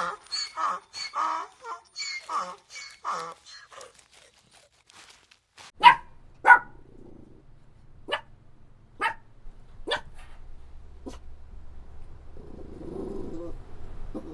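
Dog barking: a quick run of short calls in the first few seconds, then about six sharp single barks spaced roughly a second apart.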